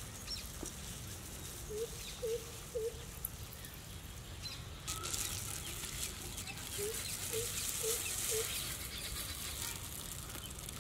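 A bird calling with short notes repeated about twice a second, three in a row and then four more a few seconds later, over a steady low rumble of open-air background.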